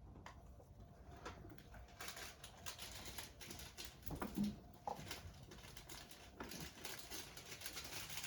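Faint handling sounds of a cup of Coke being prepared: scattered small clicks and knocks. From about two seconds in there is a crackly hiss, with a couple of short squeaks near the middle.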